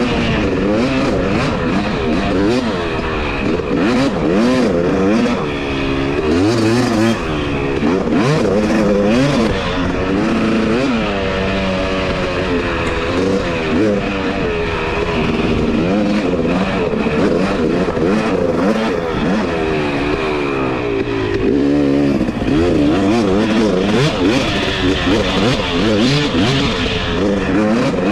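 Two-stroke dirt bike engine being ridden, its revs rising and falling over and over as the throttle is worked and gears change.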